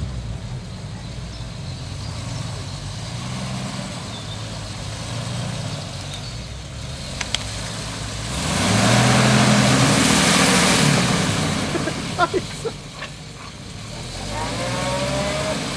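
Off-road 4x4 engine running, then revving hard for about three seconds about halfway through with a loud hiss, before dropping back.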